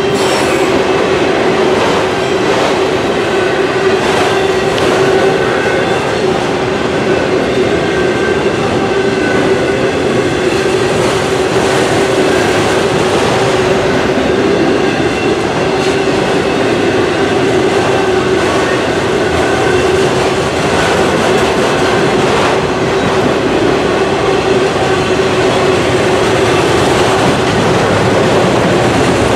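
Autorack freight cars rolling past close by, loud and steady: wheels rumbling on the rail, with clicks as they cross rail joints and a steady whine from the wheels.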